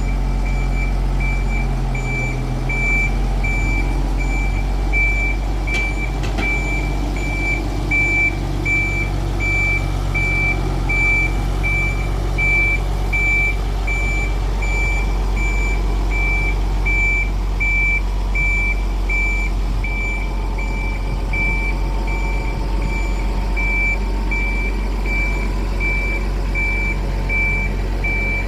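Vehicle reversing/warning beeper sounding a steady run of evenly spaced high beeps, over a continuous low rumble from the moving shunting vehicle. A brief click comes about six seconds in.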